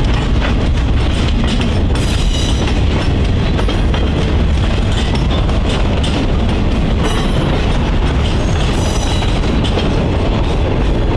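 Freight train rolling along the track: a steady low rumble with clatter from the cars, and brief high wheel squeals every few seconds.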